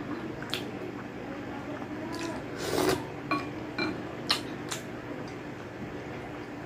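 Close-miked chewing of spicy balbacua beef stew with rice: a string of short wet mouth smacks and clicks, the loudest near the middle, with light sounds of a hand working the rice on the plate.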